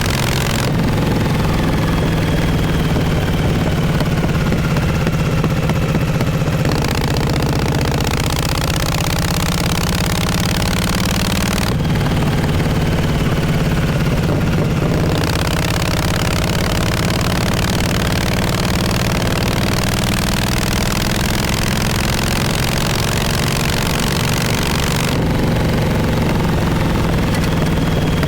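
1948 Harley-Davidson Panhead V-twin exhaust running steadily on the move, its pitch drifting gently up and down, with a rushing hiss that comes and goes over it.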